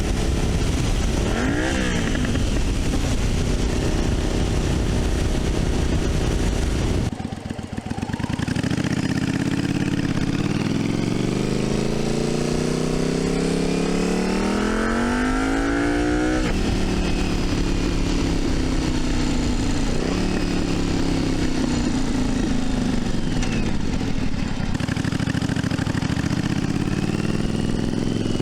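1982 Yamaha Virago 750's air-cooled V-twin running as the motorcycle is ridden. After a brief lull about seven seconds in, the revs climb steadily for several seconds and drop sharply at a gear change, then the engine runs more evenly and eases off near the end.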